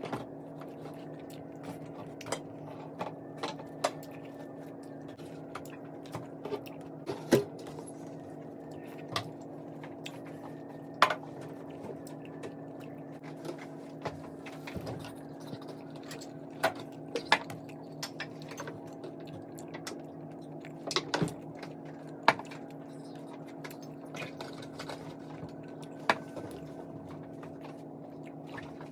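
Close-miked eating of meat and rice: wet mouth and chewing sounds with scattered sharp clicks, over a steady low hum.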